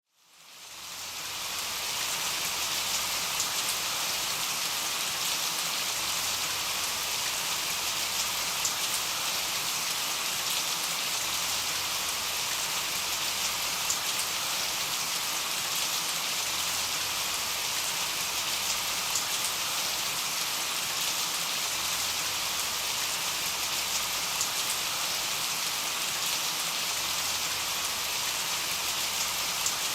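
Steady rain, with the hiss of falling rain and scattered individual drops ticking. It fades in over about the first second, then holds an even level.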